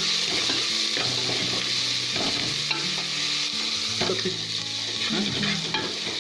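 Onions and spices frying in oil in a large aluminium pot: a steady sizzle, with a ladle stirring and scraping through the mixture. This is the onion-and-spice tempering for kadhi being sautéed.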